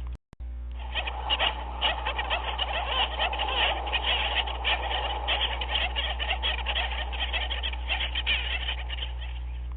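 Dense chorus of many overlapping short animal calls, likely a frog chorus or a bird colony, running on without a break over a steady low hum. The sound drops out briefly just after the start, where the looped recording restarts.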